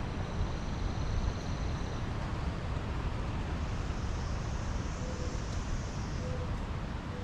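Wind buffeting the microphone outdoors: a steady, rumbling rush of noise, with faint thin high-pitched sounds in the background.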